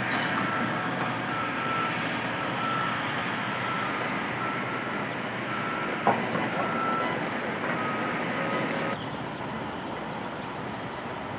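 Construction vehicle's backup alarm beeping steadily, a single tone about every three-quarters of a second, over the running of heavy machinery. The beeping stops near the end and the machinery noise drops; a single knock is heard about six seconds in.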